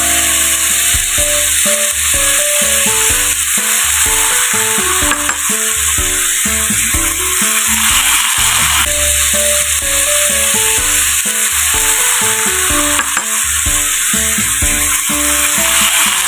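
Sliced beef and onions sizzling in a hot pan while being stirred with a spatula, with a steady frying hiss. Background music with a melody of short notes plays alongside.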